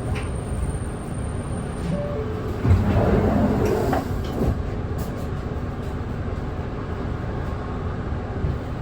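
Nissan Diesel Space Runner city bus heard from inside the cabin, its diesel engine running with a steady low rumble, with a brief thump about three seconds in.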